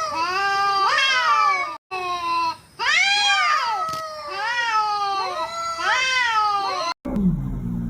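An agitated cat yowling in a string of long, bending meows, some overlapping one another. About seven seconds in it cuts off abruptly, and a low, falling sound follows.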